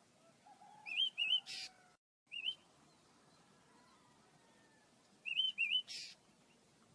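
Pet songbirds chirping in two short bursts of quick, rising-and-falling notes, each ending in a brief raspy note: one group about a second in, another near the end, with a single chirp between them. The sound cuts out for a moment about two seconds in.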